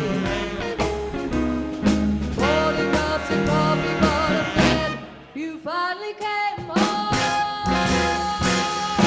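Live swing band playing, with horns (saxophone, trumpet, trombone) over upright bass and drums; the music drops back briefly about five seconds in.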